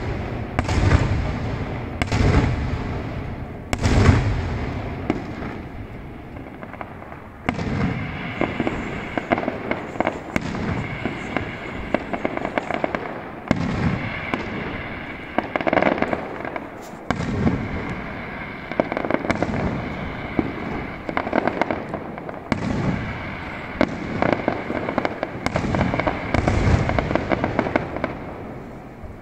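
Aerial fireworks display: shells bursting in a string of sharp booms a second or two apart, then a denser run of bangs and crackling bursts with rolling echoes that eases off near the end.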